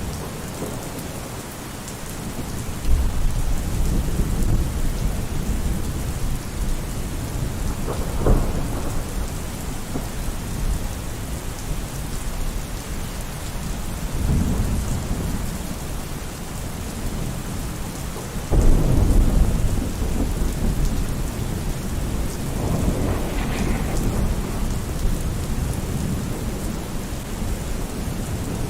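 Steady heavy rain with repeated rolls of thunder: low rumbles swell and fade several times, with a sharp crack about eight seconds in and the loudest rumble about two-thirds of the way through.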